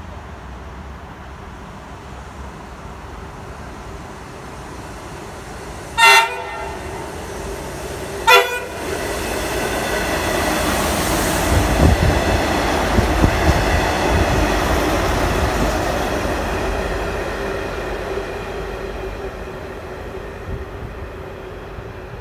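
V/Line Sprinter diesel railcar sounding two short horn blasts, then passing close by: the rumble of engine and wheels builds to a peak with a few wheel clicks over rail joints, then slowly fades away.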